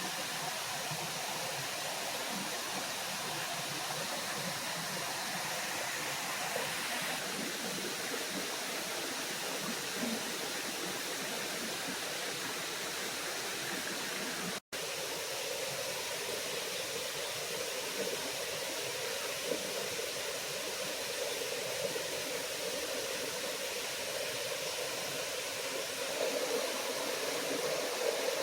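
Small waterfall splashing into a forest stream: a steady rush of water, broken for an instant about halfway through.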